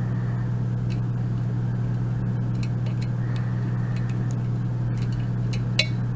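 Faint, scattered clicks of a lock pick working the pins inside a euro cylinder lock under tension, with one louder click near the end, over a steady low hum.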